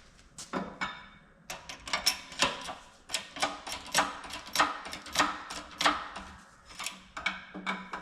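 A quick series of sharp knocks and clicks, about two a second, from metal work as a gear is pressed onto a CV joint shaft.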